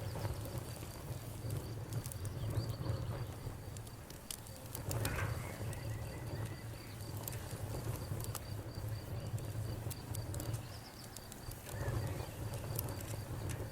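Wood fire in a fireplace burning with a steady low rumble and scattered sharp crackles and pops. A faint, high, rapidly pulsing tone runs through most of it.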